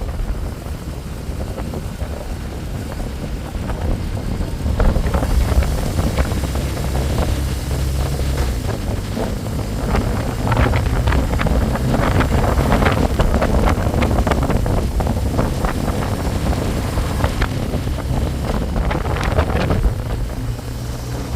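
Motorbike engine running steadily while riding, with wind buffeting the microphone in gusts.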